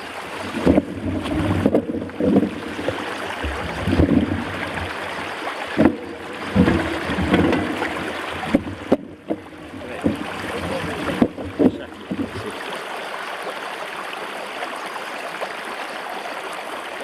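Steady rush of a flowing river, with gusty rumble and bumps on the microphone for most of the first twelve seconds or so.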